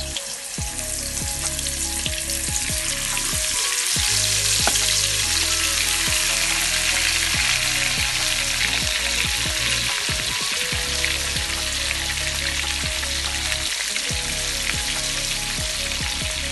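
Spice-marinated quail pieces frying in hot oil, sizzling steadily. The sizzle swells about four seconds in, then holds.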